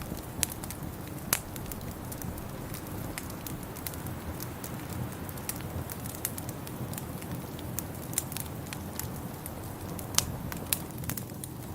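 Wood fire crackling in a fireplace: many sharp, irregular pops and snaps over a steady low noise bed, a few pops louder than the rest.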